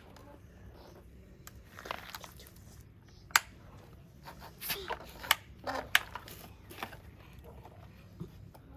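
Toy digger and toy truck being played with in soil: irregular sharp plastic clicks and short crunching scrapes of dirt.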